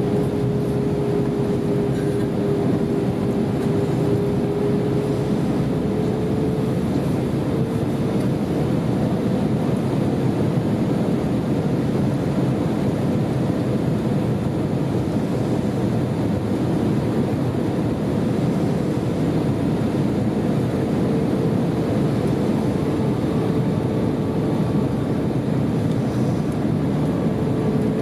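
Airbus A320 cabin noise in flight: a steady roar of engines and rushing air, with a single humming tone that wavers slightly and comes and goes.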